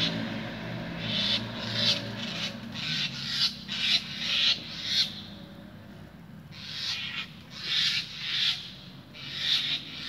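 A bird calling in a series of short, harsh, raspy notes, about two a second, in two bouts separated by a pause of about a second and a half.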